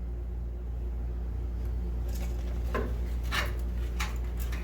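Tools and metal suspension parts knocking and clinking: a handful of short, sharp knocks about half a second to a second apart in the second half, over a steady low hum.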